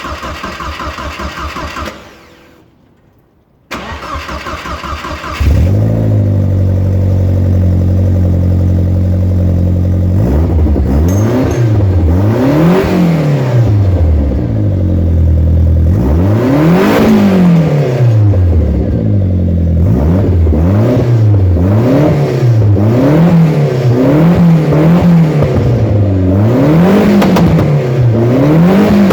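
Saab B204 2.0-litre four-cylinder engine in a Mk2 Ford Escort cranked on the starter, pausing, then cranked again and catching about five seconds in. It idles steadily for a few seconds, then is revved up and down over and over, through a new 3-inch exhaust that stops short at the rear axle.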